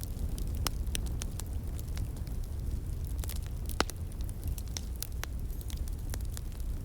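Wood fire burning, with irregular sharp crackles and pops, one louder pop near the middle, over a steady low rumble.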